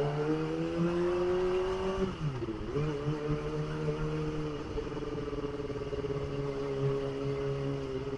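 Kawasaki ZX-25R's 250 cc inline-four engine under way: the revs climb steadily, drop sharply and recover about two seconds in at a gear change, then hold steady with a slight fall near the end.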